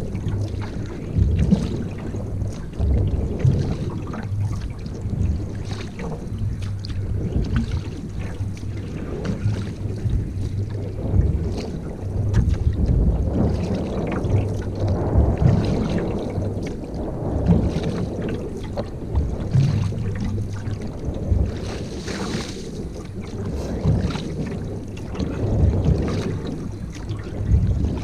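Canoe paddling: water noise from the paddle and hull swells with each stroke, about every two seconds, with small knocks and wind buffeting the microphone.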